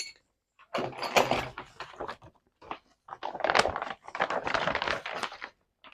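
Rustling and crinkling of packaging being handled while parts are unpacked from a box, in two spells of a second or two each.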